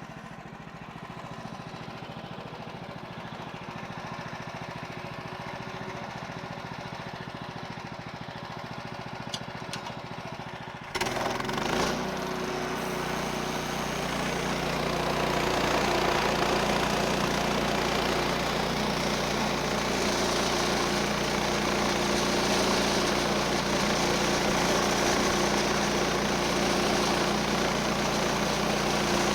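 The 14 HP Kohler engine of a Woodland Mills HM130 bandsaw mill idling steadily, then throttled up suddenly about eleven seconds in. The centrifugal clutch engages the band blade, and the mill runs loud and steady as it saws a board off the log.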